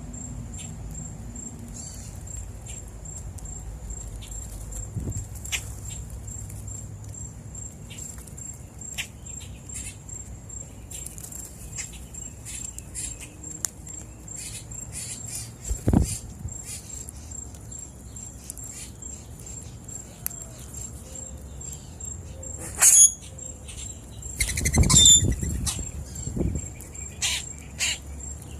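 Wild birds at a seed feeder: many short chirps and clicks, with a few louder calls and a rustle near the end, over a steady high-pitched tone.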